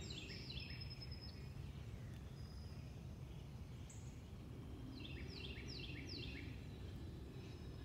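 A songbird singing two short runs of quick down-slurred notes, one in the first second and another about five seconds in, over a low steady outdoor rumble.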